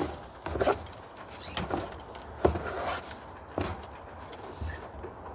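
A bird cage being cleaned by hand: a few scattered knocks against the cage and tray, with rubbing and scraping in between.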